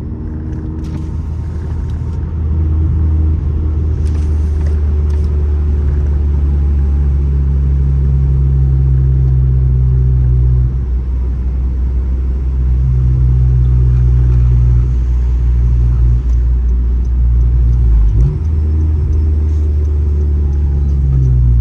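9th-generation Honda Civic Si's 2.4-litre four-cylinder running through an aftermarket downpipe and exhaust, a deep, steady exhaust note with a brief break about eighteen seconds in.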